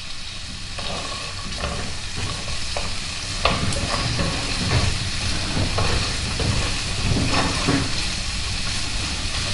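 Speck, red onion and walnuts sizzling in oil in a non-stick frying pan, with a steady hiss. A wooden spatula stirs them, scraping and tapping against the pan every so often.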